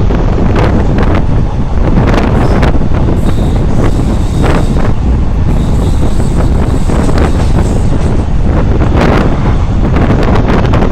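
Rumble of a moving train with strong wind buffeting the microphone in irregular gusts.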